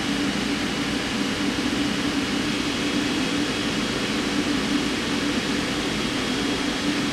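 Steady mechanical hum with hiss, strongest in a low droning band, with a faint thin high whine above it: the running noise of a machine.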